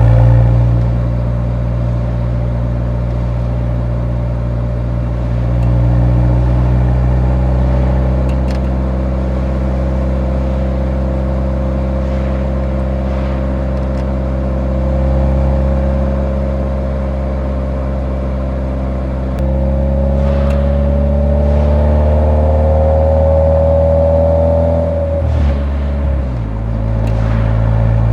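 Exhaust note of a Nissan 180SX's SR20DE four-cylinder through its muffler while driving: a steady cruising drone, then the revs climb for several seconds about two-thirds of the way in and drop off sharply near the end before settling again.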